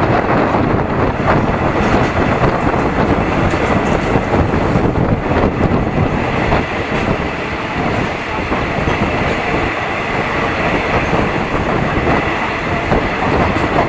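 Passenger carriage of a moving train, heard through its open window: steady running noise of the wheels on the rails. A faint steady high tone joins about halfway through.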